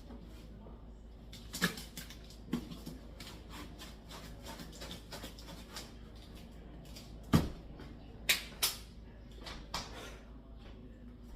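Scattered knocks and clicks of containers being handled while homemade laundry powder is mixed, with light rustling between; the loudest knock comes about seven seconds in, followed by two quicker ones.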